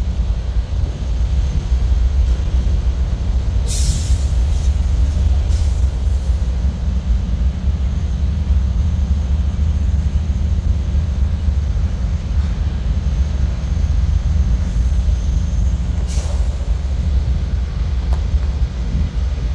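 Freight train rolling slowly past, its tank cars and boxcars making a steady low rumble on the rails. A few short, sharp high-pitched noises from the train's wheels or brakes cut through about 4, 5.5 and 16 seconds in.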